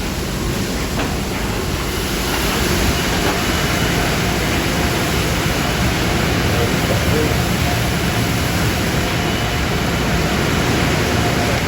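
Automatic car wash equipment running: a loud, steady rushing noise that grows a little louder about two seconds in, with a faint steady whine in it.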